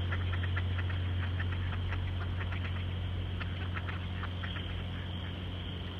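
Steady low engine hum, with many faint quick ticks over it, thinning out in the last couple of seconds.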